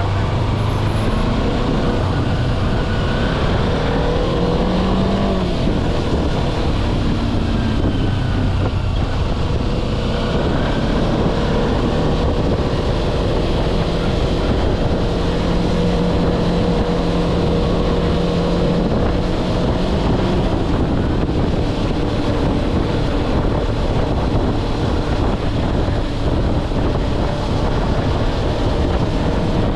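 Kawasaki Versys-X 250's parallel-twin engine running while riding, its pitch rising and falling several times in the first ten seconds with throttle and gear changes, then holding steady. Wind rushes over the microphone throughout.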